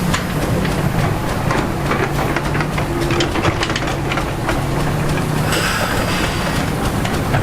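Heavy diesel earth-moving machine running steadily, with repeated metallic clanks and a brief squeal about five and a half seconds in.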